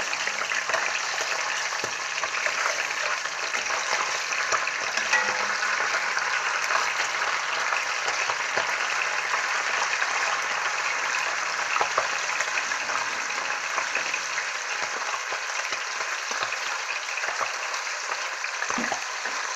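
Goat liver frying in oil in a cast-iron skillet: a steady, dense sizzle, with a few clicks and scrapes of a metal spatula as the pieces are turned.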